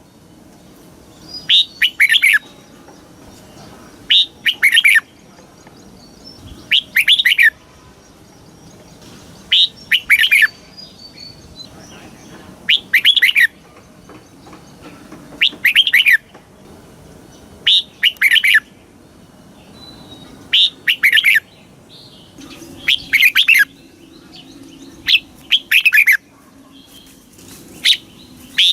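Red-whiskered bulbul singing short, bright warbled phrases, one about every two and a half seconds.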